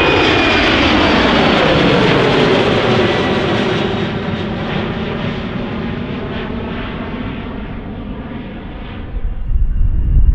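Jet airliner passing close by. Its engine roar and fan whine fall in pitch and fade as it moves away. About nine seconds in, the sound cuts abruptly to a low rumble with a faint steady whine.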